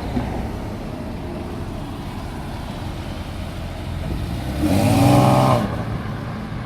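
A car engine revving hard for about a second, its note rising, about four and a half seconds in, over a steady low rumble of cars running.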